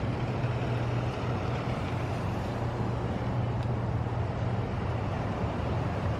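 Steady low hum of an idling vehicle engine under a constant noisy background, with no distinct events.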